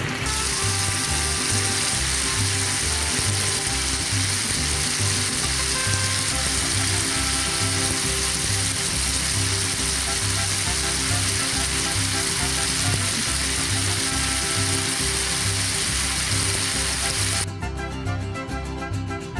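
Long beans and potatoes frying in a pan of spicy sauce, giving a steady sizzling hiss, over background music with a steady beat. The sizzling cuts off suddenly near the end, leaving only the music.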